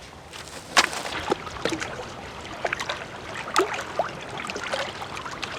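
Dry branches and sticks being handled and broken for firewood: scattered clicks and snaps, with one sharp crack about a second in.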